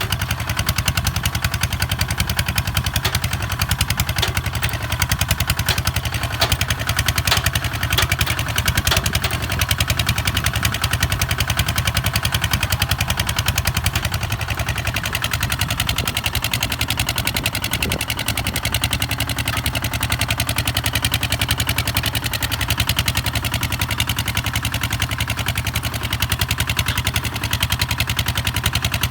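Kubota ZT 155 DI single-cylinder diesel engine running steadily with a rapid, even knock, working a tractor on steel wheels while plowing.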